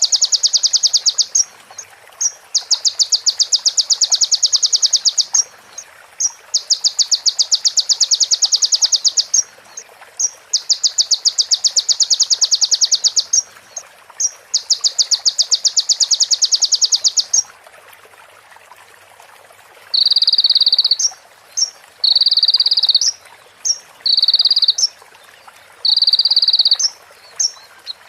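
Recorded bird calls, likely a female prinia (prenjak): five long, very rapid rattling trills of about three seconds each, then after a short pause four shorter buzzy phrases of about a second each.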